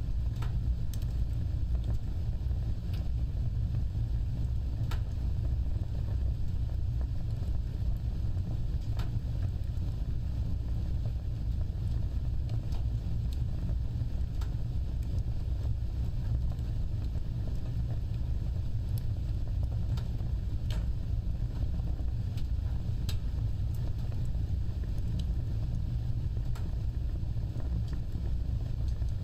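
Fireplace fire burning with a steady low rumble of flames, broken by scattered sharp crackles and pops every second or two.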